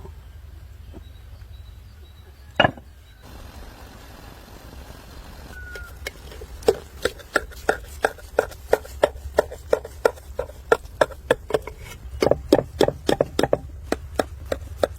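Chopping on a board: a single knock, then from about six seconds in a long run of quick, evenly spaced chopping strikes, about three a second, that stops shortly before the end.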